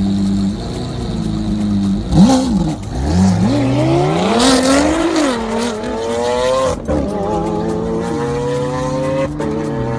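Car engine with a loud exhaust idling steadily, then revved: a sharp blip about two seconds in, followed by a climb to a higher held engine speed that slowly settles near the end.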